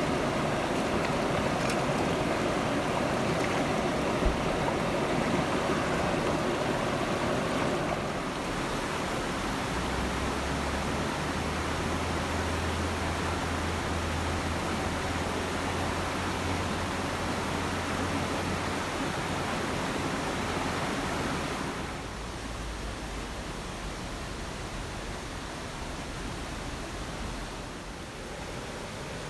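Steady rushing water noise, stepping down in level about eight seconds in and again about twenty-two seconds in.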